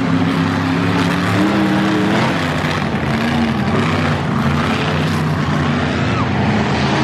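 Monster truck engine running loud, its pitch wandering up and down as it is revved.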